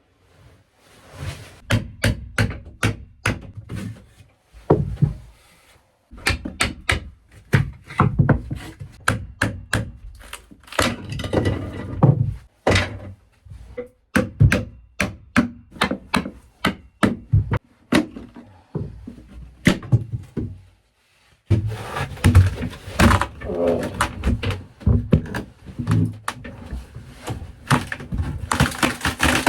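Repeated hard knocks and thuds of demolition work on a sailboat's fiberglass and wood berth interior, coming in runs of one or two blows a second with short pauses. The blows come thickest near the end.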